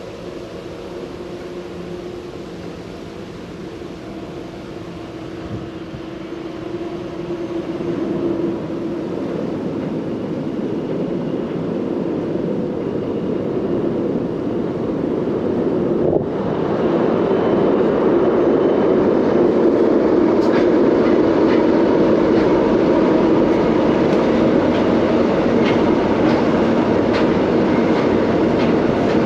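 Diesel-hauled narrow-gauge freight train approaching and passing on a steel girder bridge: the locomotives' engines drone and grow steadily louder, then from about halfway the tank wagons roll by with a steady rumble of wheels and a run of rail clicks.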